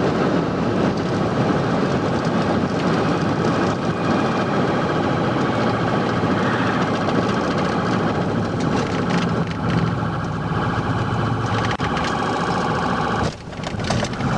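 Police patrol car driving at speed: steady engine, road and wind noise that drops away abruptly near the end.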